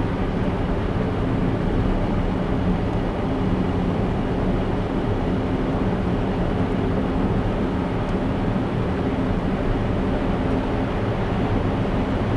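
A car driving at a steady pace: continuous road and engine noise with a low steady hum, even in level throughout.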